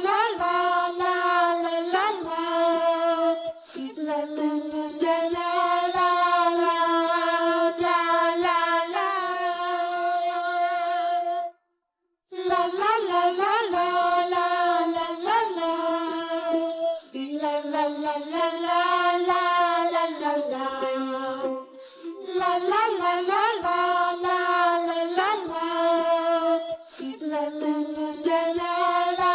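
Background music of a high, child-like voice singing a wordless melody. It cuts out completely for under a second about twelve seconds in, then carries on.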